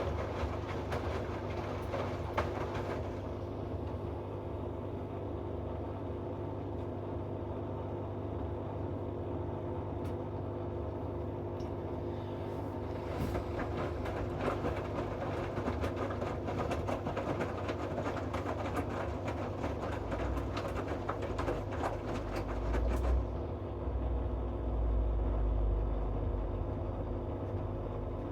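Hoover washing machine running at a steady speed, with a constant motor hum over a busy rattle, and deep rumbling swells from about twenty seconds in. Its bearings are the one fault the speaker holds against the machine.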